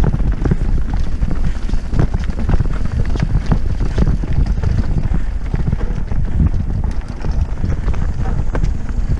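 Mountain bike descending rough singletrack: wind buffets the microphone in a heavy rumble while the tyres and bike clatter over the ground in quick, irregular knocks.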